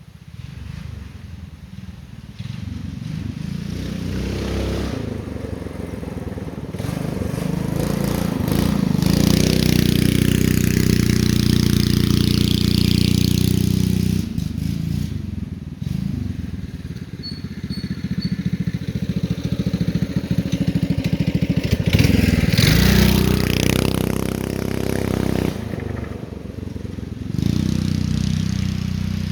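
Mini bike's 6.5 hp single-cylinder four-stroke engine with a Mikuni carburettor running under load on a hill climb. It revs up and holds high for several seconds, eases off about halfway, surges again, then drops and picks up near the end.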